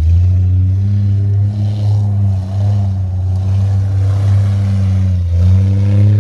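SUV engine held at high revs under load, running hard with a steady pitch that wavers slightly.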